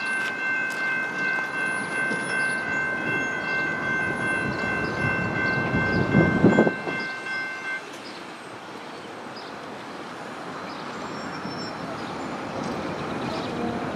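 Train horn sounding one long, steady chord over the rumble of a train at the crossing. The rumble swells to its loudest just before the horn cuts off about eight seconds in; the train's running noise carries on, quieter, after that.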